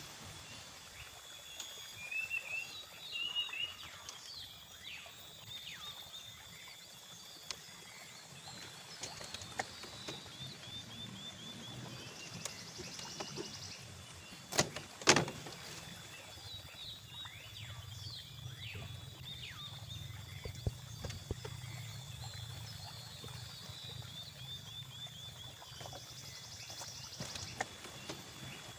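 Outdoor ambience of birds chirping and trilling over a steady high insect drone. About halfway through there are two sharp knocks half a second apart, the loudest sounds in the stretch.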